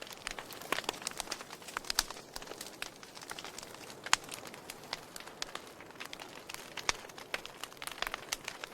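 Wood fire crackling in a fireplace: a steady bed of small irregular crackles with sharp louder pops every second or two.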